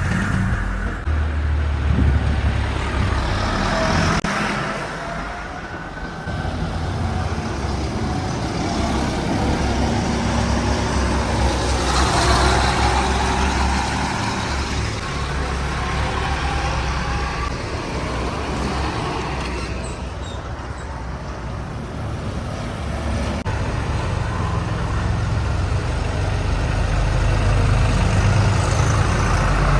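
Farm tractor engines running on a road, a low engine drone with road noise that swells and fades as the machines pass, growing louder near the end.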